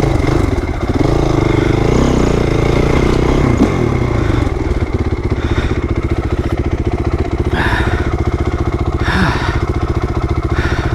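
2008 Honda CRF450R's single-cylinder four-stroke dirt-bike engine revving up and down for the first few seconds, then running steadily at low revs.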